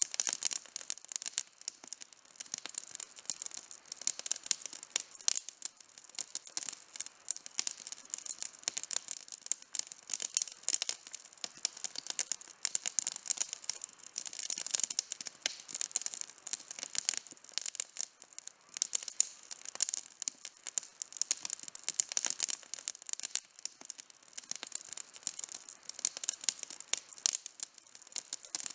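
Campfire burning, wood crackling and popping constantly in dense, irregular snaps.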